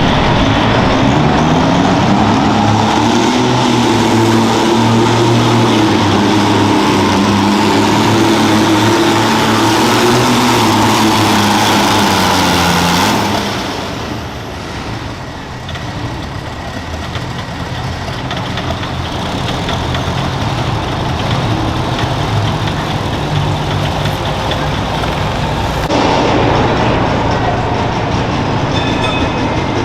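Garden tractor engine running hard under load, its pitch climbing over the first few seconds and holding steady before falling off about thirteen seconds in. After that comes a quieter, rougher engine sound that grows louder again toward the end.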